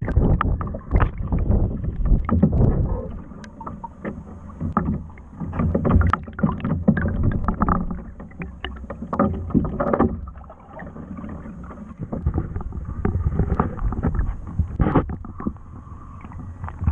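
Wind rumbling on the microphone, with scattered knocks and clunks of handling, typical of a small fishing boat.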